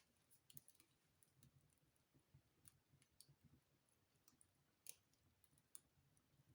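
Wood fire crackling faintly in a fireplace: scattered sharp pops and snaps at irregular intervals, the loudest about five seconds in, over a faint low rumble of the flames.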